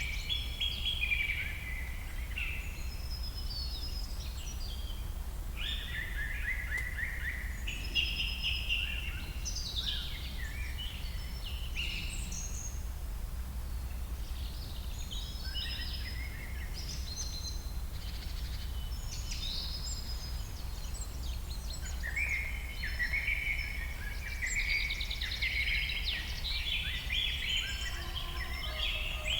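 Birds chirping and singing in short repeated phrases, busiest in the first half and near the end, over a steady low hum.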